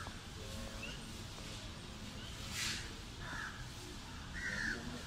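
A few short bird calls, separate and spaced a second or more apart, with a brief rushing hiss about halfway through.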